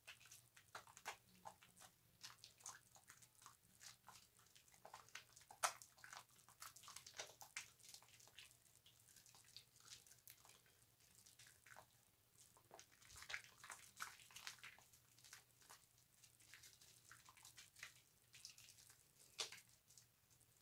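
Faint wet squishing and crackling of a bar of soap being lathered: irregular soft squelches, several a second.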